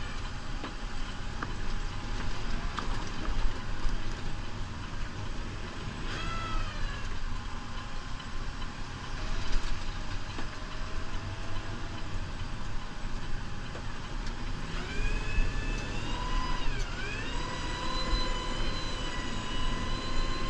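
New Holland Powerstar 75 tractor's diesel engine running with a steady low rumble; about 15 seconds in, a whine rises, dips briefly and then holds.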